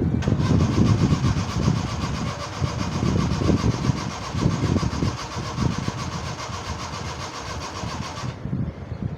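Suzuki Mehran's small petrol engine being cranked by its starter motor on a low battery: the starter whirs steadily for about eight seconds and then stops abruptly, with uneven low chugging from the engine throughout.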